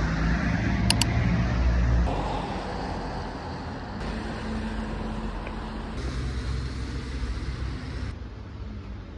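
Steady low rumble of vehicle and road-traffic noise. Its character changes abruptly every couple of seconds, as between separate short recordings.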